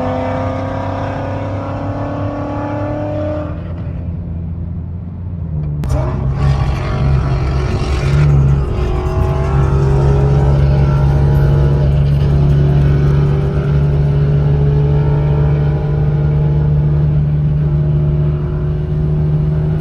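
Car engine accelerating, its pitch climbing, dropping back about three and a half seconds in as it shifts gear, then climbing slowly again under a steady low drone.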